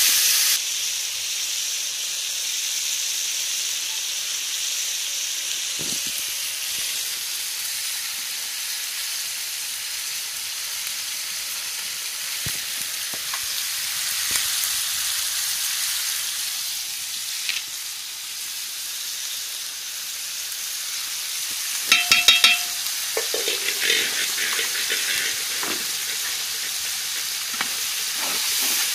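Chopped tomatoes and onion sizzling steadily as they fry in oil in a large metal pot. About three-quarters of the way through, a metal ladle clanks and scrapes against the pot a few times as it is stirred.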